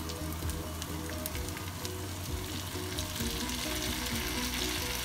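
Salmon pieces and sliced onions frying in a nonstick pan, a steady sizzle with small crackles, as chopped tomatoes are tipped in. The sizzle grows a little louder in the second half.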